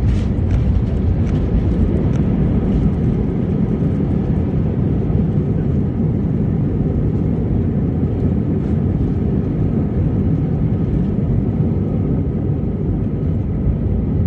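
Steady low rumble inside the cabin of an Airbus A320-214 during landing: CFM56 engine and runway or airflow noise heard from a rear window seat, holding an even level throughout.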